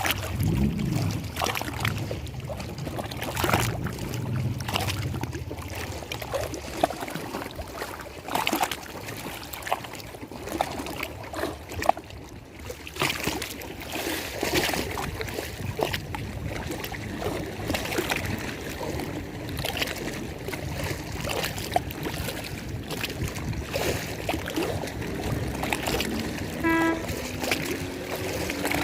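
Lake water lapping and splashing irregularly against the shore, with a low hum underneath for the first few seconds and a short pitched tone near the end.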